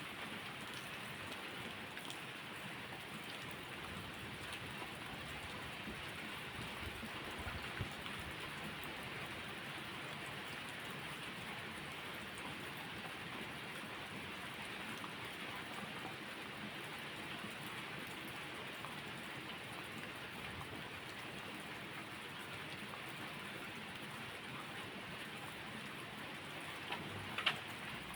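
Steady rain falling, with an even hiss. A couple of sharp pops cut through it, the loudest near the end.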